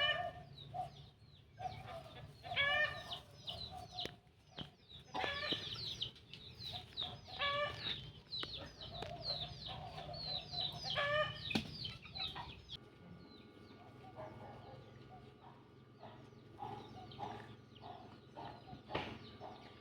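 Chickens clucking in a run of short, repeated calls, louder for the first dozen seconds and fainter after that.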